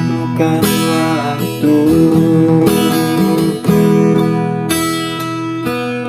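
Acoustic guitar strumming chords, with a new strum about once a second and each chord left ringing.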